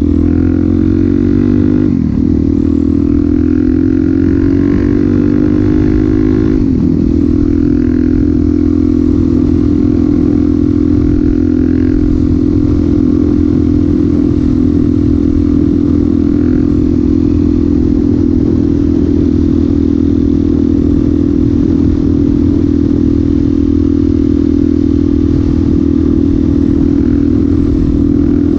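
Suzuki DR-Z400SM single-cylinder engine running through a Yoshimura exhaust, pulling up through the gears with two upshifts in the first seven seconds or so, then holding a steady engine speed while cruising.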